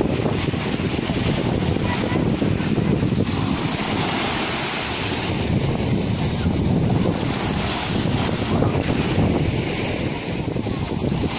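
Sea waves surging and washing on the shore, a continuous rushing noise that swells louder about three seconds in.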